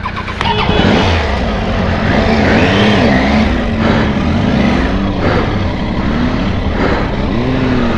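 Triumph Tiger's three-cylinder engine pulling away on a dirt track, its revs rising and falling again and again as the rider works the throttle over rough ground.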